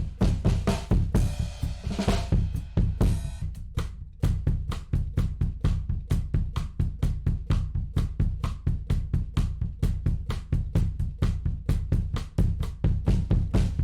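Recorded drum kit playing a steady groove, with kick, snare and cymbals hit in quick even strokes, heard through a tape-emulation plugin. The playing drops back briefly about four seconds in.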